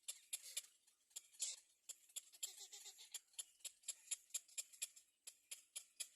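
Rapid, irregular series of short, sharp high chips, about five a second, from small birds at the nest.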